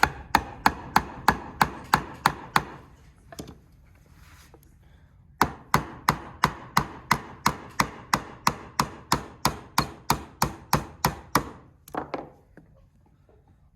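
Hammer driving nails into wood with quick, even strikes about three a second: a run of about nine, a pause of a few seconds, then a longer run of about twenty.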